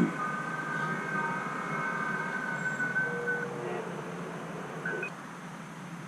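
Amateur radio receiver audio on the 15 m band: several FT8 digital signals, heard as steady pitched tones, over band hiss, with the tones ending about three and a half seconds in as the transmission cycle closes. A short knock right at the start.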